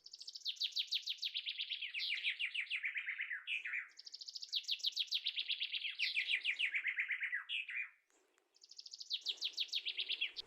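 A songbird singing rapid trills, each phrase a quick run of notes falling in pitch over about two seconds, repeated several times with a short pause about eight seconds in.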